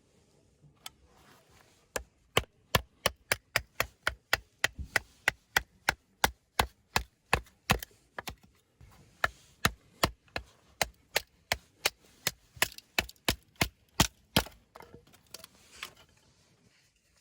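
A steady run of sharp knocks, about three a second, with a short pause a little past the middle, starting about two seconds in and stopping a few seconds before the end.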